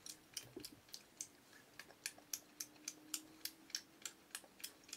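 A person chewing a piece of beef jerky close to the microphone: soft, wet mouth clicks in a steady rhythm of about three to four a second.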